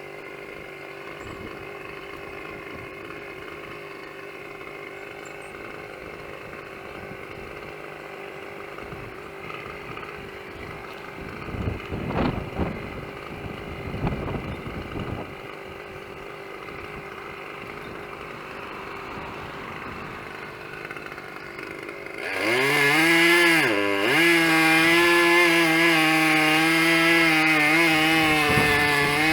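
Two-stroke chainsaw idling steadily, with a couple of brief knocks near the middle. About three-quarters of the way in it is revved to full throttle, its pitch sagging once briefly before holding high, as when the chain bites into wood.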